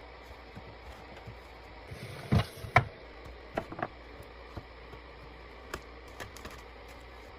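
Scattered knocks and taps of containers being handled and set down, the two loudest close together about two and a half seconds in, then a few lighter ones, over a low steady hum.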